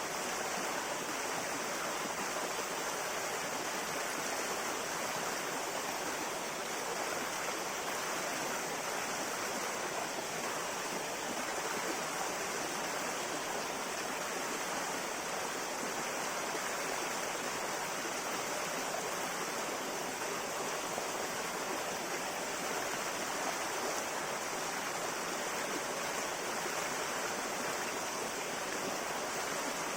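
River water flowing over rocks: a steady, even rushing and babbling with no breaks or changes.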